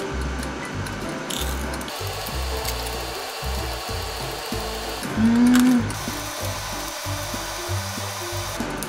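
Close-miked crunching and chewing of a crisp, pastry-like rusk, over background music with a steady bass line. A short hummed "mmm" of enjoyment about five seconds in is the loudest sound.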